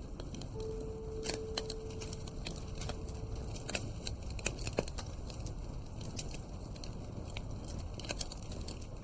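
Wood fire crackling in a fireplace, with irregular sharp pops and snaps over a low rumble.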